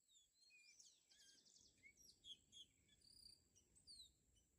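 Faint birdsong: many short, falling whistled calls and a quick rattling trill about a second in, over a steady high-pitched insect whine.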